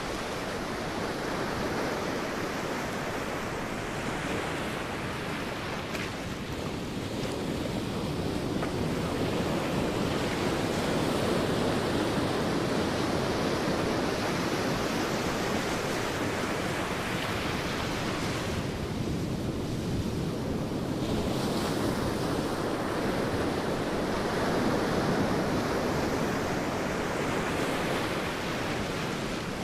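Sea waves breaking and washing on a beach, a continuous surf that swells and eases every several seconds.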